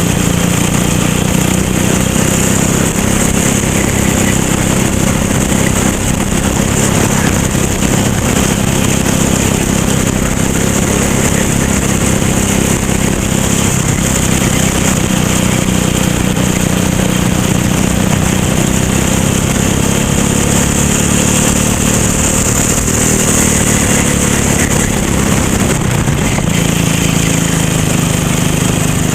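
Racing kart engine running continuously under load, its pitch drifting up and down slightly as the kart goes round the track, with a steady hiss over it.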